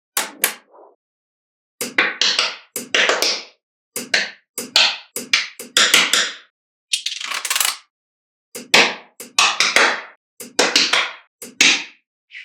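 Small magnetic balls clicking and snapping together, in a string of sharp clicks, each followed by a short rattle, with brief pauses between bursts.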